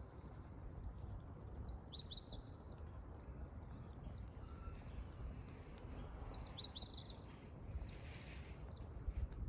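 A small wild songbird sings two short phrases of quick high chirps, about two seconds in and again about six seconds in. Under them runs a low steady rumble with faint scattered crackles from firewood burning.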